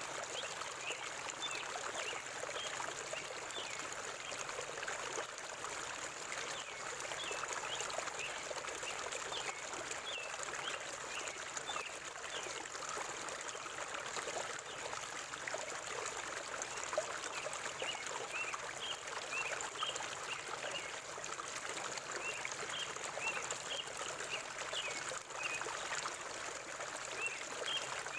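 Forest stream flowing and babbling steadily over rocks, with small birds giving repeated short, high chirps, more of them in the second half.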